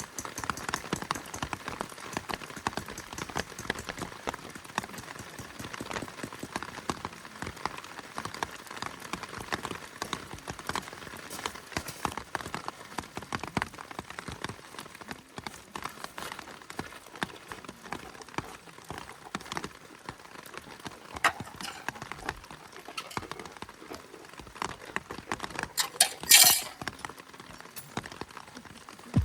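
Rain pattering and dripping on a tarp overhead as dense, irregular taps. About 26 seconds in there is a brief loud hiss.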